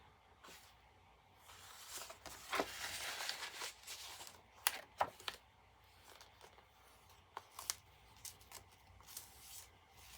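Paper being handled: large journaling tags and journal pages rustling and sliding, with a few sharp light taps and clicks scattered through.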